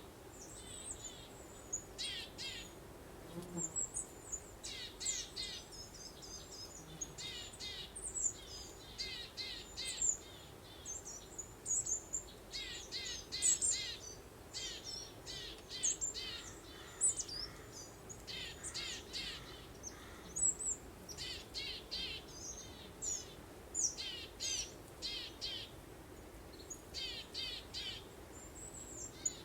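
Several small songbirds singing in short, quick trilled phrases, one after another with little pause, over a faint steady background hiss.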